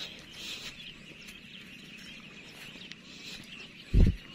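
Faint birds chirping and calling in the distance over open rice fields, with a short low thump about four seconds in.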